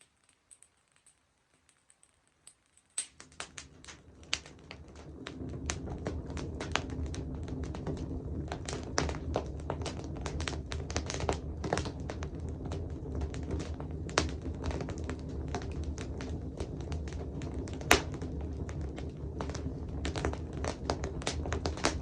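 Wood fire crackling and popping, with irregular sharp crackles. For the first few seconds there are only faint scattered crackles. About three seconds in, a low steady rumble rises under denser crackling, and there is one loud pop near the end.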